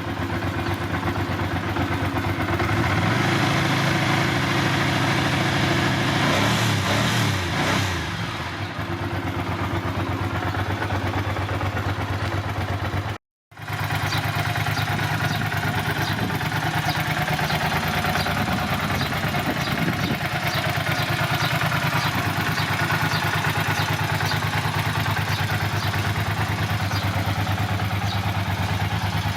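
Ducati Monster 400 S's air-cooled L-twin engine idling after a cold start. Its speed rises and falls a little over the first eight seconds. After a brief dropout it settles to a steady, even idle with a light regular ticking over the top.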